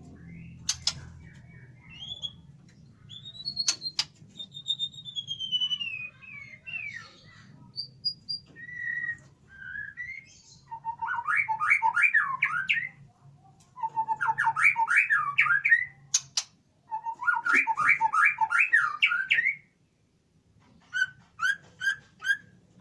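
White-rumped shama (murai batu) singing: varied whistled phrases and glides, then three loud bursts of rapid trilling notes about three seconds apart, and a few short notes near the end. A few sharp clicks fall between the phrases.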